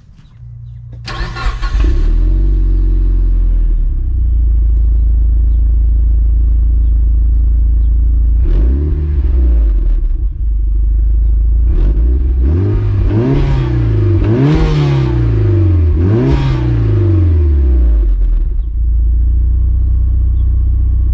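Mitsubishi Lancer Evolution IX's turbocharged 2.0-litre 4G63 four-cylinder starting about a second in, then idling through its exhaust with the muffler still fitted. It is revved once, then three times in quick succession, each rev rising and falling back to idle.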